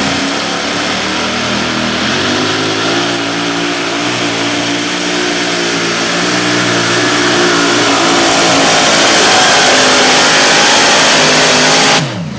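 Modified pulling tractor's engine running at full power under load from the sled, a loud sustained drone that climbs slightly in pitch and grows louder, then cuts off sharply near the end.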